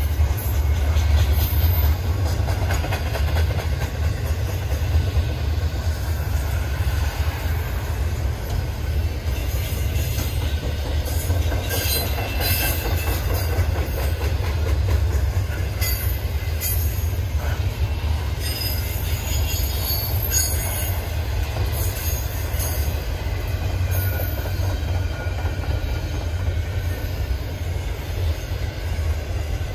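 Freight train cars rolling past with a steady low rumble. Brief high-pitched wheel squeals come in several times around the middle.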